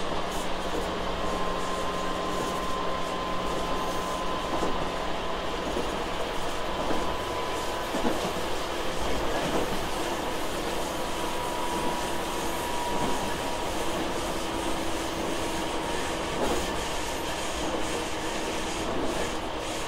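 Running sound of a Tobu 6050 series electric train heard inside the car: a steady rumble of wheels on rail with light clacks over the rail joints and faint, slowly drifting whining tones.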